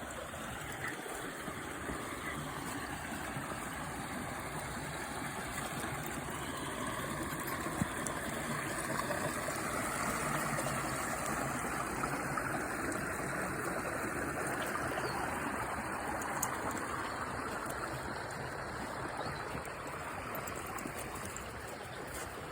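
Steady rushing of a stream's flowing water, growing a little louder in the middle and easing off again.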